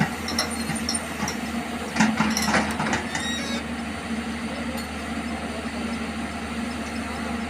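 Hyundai 210 excavator's diesel engine idling steadily, with a few sharp metallic clicks and knocks in the first three seconds.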